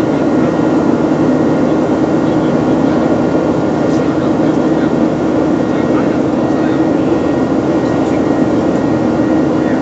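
Passenger airplane cabin noise: the steady hum of the engines over an even rush of air, with no change in level.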